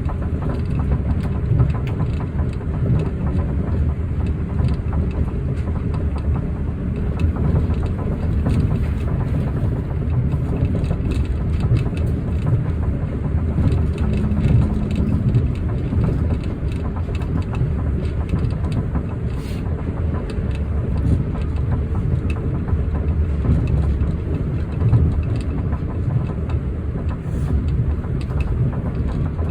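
Osaka Metro New Tram, a rubber-tyred automated guideway train, running along its guideway with a steady low rumble from its tyres and running gear.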